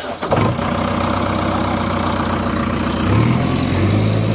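A heavy engine idling steadily, its low note stepping up slightly about three seconds in.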